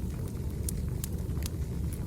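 Burning firewood: a steady low rumble from the fire with sharp crackling pops, about four in two seconds.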